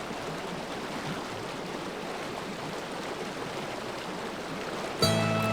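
A mountain river rushing steadily, an even hiss of flowing water. Music comes in sharply near the end.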